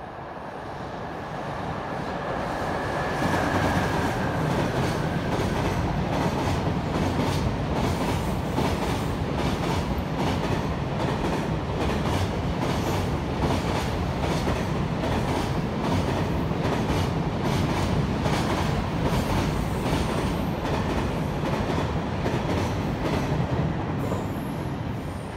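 Long freight train passing at speed on an elevated track, its wheels clacking over the rail joints in a fast, steady rhythm. The sound builds over the first few seconds and fades near the end, with a brief high whine about three seconds in.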